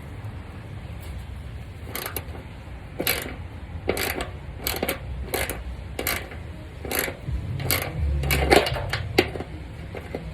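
Irregular metallic clicks and knocks of a wrench working a 10 mm bolt, about a dozen of them spaced unevenly over several seconds.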